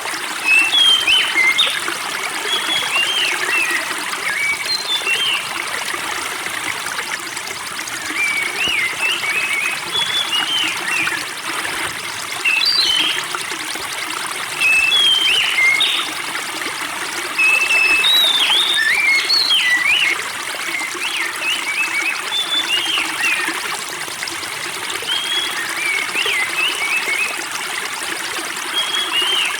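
Spring water trickling and splashing steadily, with small songbirds chirping in short bursts of high, quick notes every few seconds.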